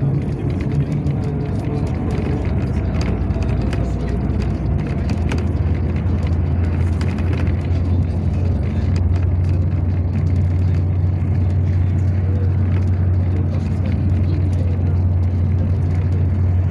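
Yutong ZK6118HGA city bus heard from inside the cabin while driving: a steady low engine drone, settling into an even hum a few seconds in, with the body and fittings rattling and clicking over the road.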